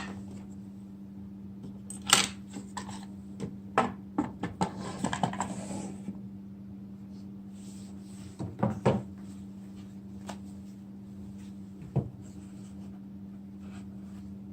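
Scattered light knocks and clicks of hard pieces being handled and set down, with a short stretch of rustling about halfway through, over a steady low hum.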